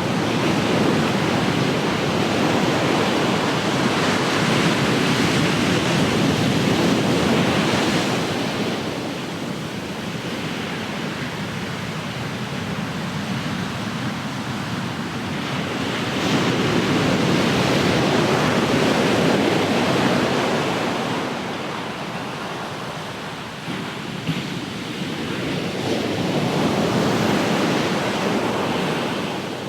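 Ocean waves breaking and washing up the shore, the surf swelling and ebbing in three long surges.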